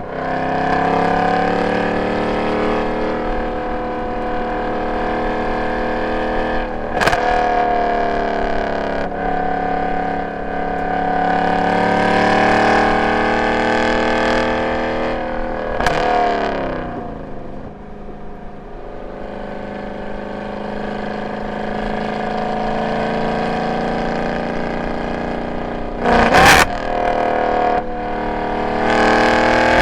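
Mercedes-AMG M156 6.2-litre V8 with long tube headers, an x-pipe and no catalytic converters, driven hard on track: the exhaust note holds and climbs under load. About 16 seconds in the revs drop sharply as the driver lifts off, then it pulls again, with a short sharp burst of noise near the end.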